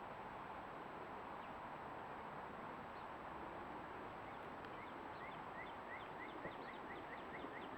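A bird calling a rapid run of short, rising chirps, about four a second, starting about halfway through, over a steady outdoor background hiss.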